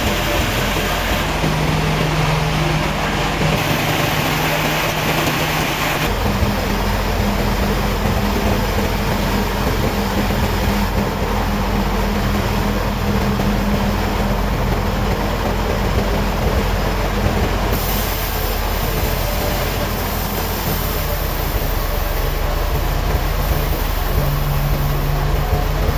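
Sawmill machinery running steadily, a loud mechanical din with a low engine hum. The sound changes abruptly about six seconds in and again near eighteen seconds.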